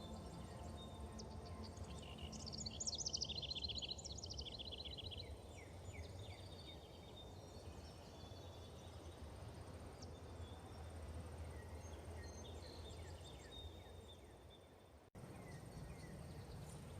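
Forest ambience with birds calling: scattered quick chirps and down-sliding notes, the loudest a rapid trilling phrase about three seconds in, over a steady low rumble. The sound cuts out abruptly near the end, then comes straight back.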